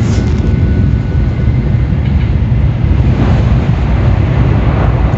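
Steady low rumble of a Tokaido Shinkansen train running at speed, heard from inside the car.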